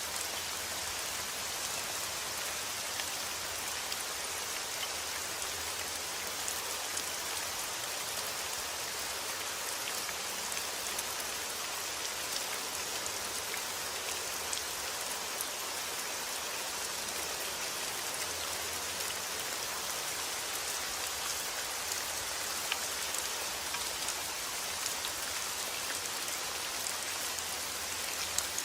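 Steady rain falling on a surface, with many small individual drops ticking through the even hiss.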